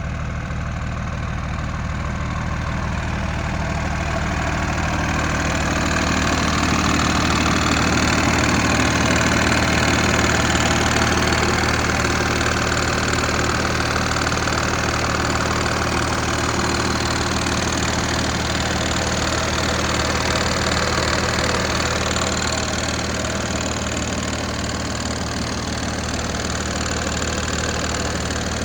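Diesel engine of a Peterbilt 330 truck, a Cummins ISC inline-six, idling steadily with a diesel knock.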